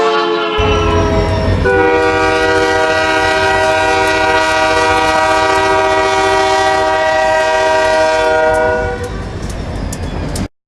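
Diesel locomotive's multi-chime air horn: the tail of a blast sliding down in pitch as the train passes, then a long steady blast from about two seconds in until near the nine-second mark, over a low engine and wheel rumble. The sound cuts off abruptly just before the end.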